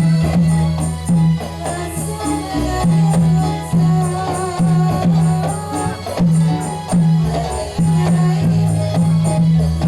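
Ndolalak dance accompaniment: a deep, steady beat about once every eight-tenths of a second, with rhythmic tambourine-like jingles and a wavering melody over it.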